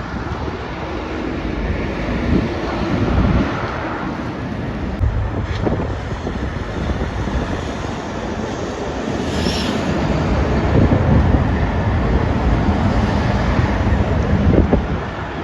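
Road traffic, trucks among it, passing at speed, with wind on the microphone. The sound swells about three seconds in and again from about ten seconds until near the end.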